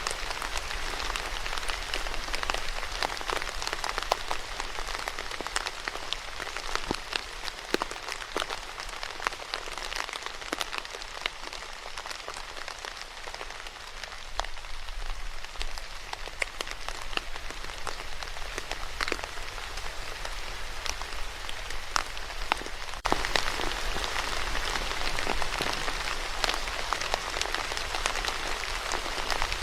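Steady rain falling, with distinct drops ticking through it; it grows a little louder about three quarters of the way through.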